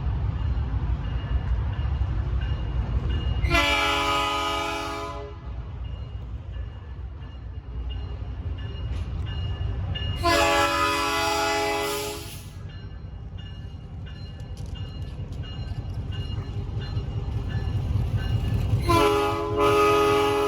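EMD MP15DC diesel switcher locomotive sounding its multi-tone horn for a road crossing: two long blasts, then a third starting near the end, over the steady low rumble of its diesel engine.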